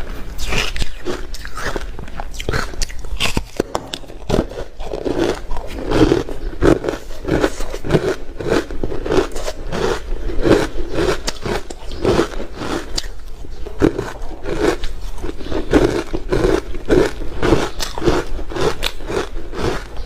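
Close-miked crunching of ice being bitten and chewed, a rapid crackle of breaking ice with chewing strokes about twice a second.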